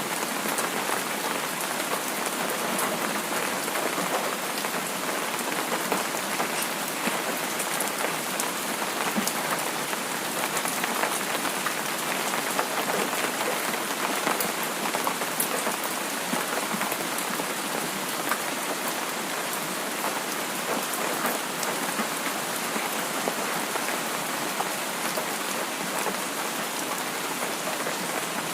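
Steady rain falling on a surface, an even hiss with many small drop ticks, at an unchanging level.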